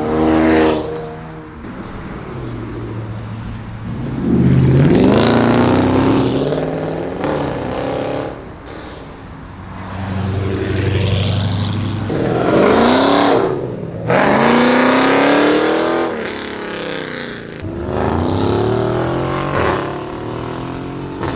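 Loud car engines revving hard as cars pull away, in several swells of rising and falling revs.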